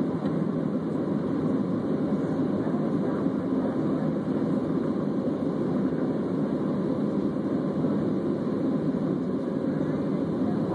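Jet airliner cabin noise: a steady, even roar of the engines and airflow heard from inside the passenger cabin.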